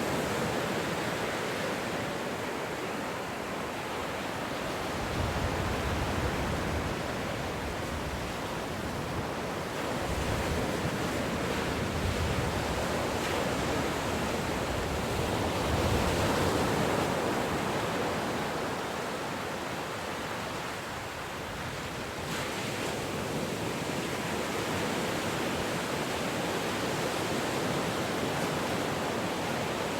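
Ocean surf: a continuous rushing wash of waves that swells and fades every few seconds as breakers roll in.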